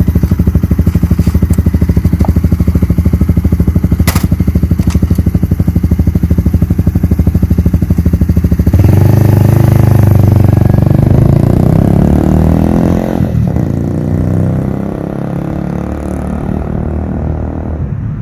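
Vehicle engine running loudly with a rapid, even firing pulse. About nine seconds in the sound changes to a fuller one with shifting pitch, then eases off somewhat.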